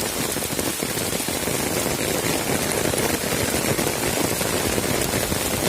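Heavy rain pouring steadily, a dense patter of drops hitting the ground and surfaces.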